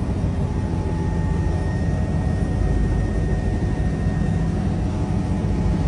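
Helicopter engine and rotor running: a steady, loud low drone with rapid pulsing and a thin steady high whine over it.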